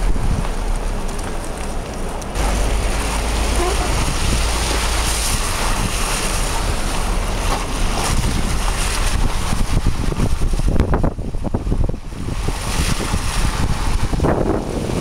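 Wind buffeting the microphone: a steady rushing noise with a heavy low rumble that grows stronger about two seconds in.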